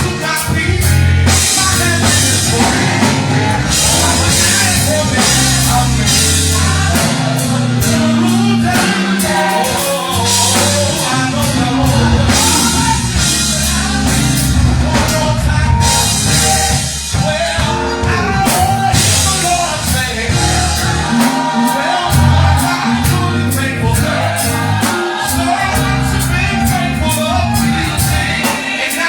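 Live gospel music: voices singing over a band with drums and bass guitar, played loud and continuously.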